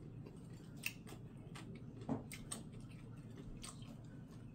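Faint chewing of stir-fried chicken feet, with scattered short clicks and smacks.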